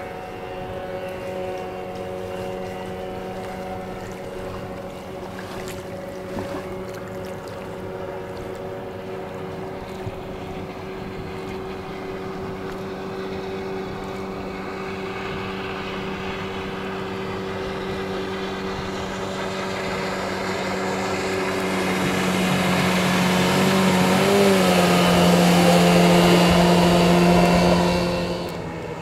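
Outboard motor pushing an inflatable boat at steady speed, its note growing louder as the boat approaches and passes close by, then falling away sharply about a second before the end.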